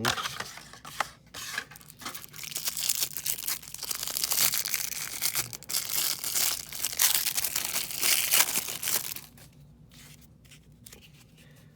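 Trading card pack wrapper being torn open and crinkled: a run of tearing and crackling that lasts about nine seconds, then drops to a few faint clicks.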